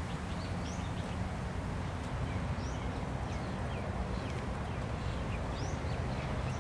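Small birds chirping, many short high calls scattered throughout, over a steady low background hum.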